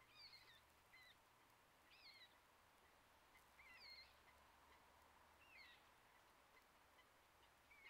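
Faint songbird calls: short sliding whistled notes repeated every second or two.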